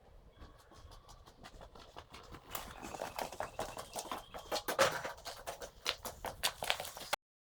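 A quick, uneven series of light clicks and knocks that grows steadily louder and cuts off suddenly near the end.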